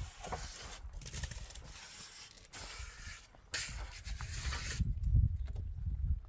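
Rough scraping strokes, several in a row, each lasting about half a second to a second, over a steady low rumble.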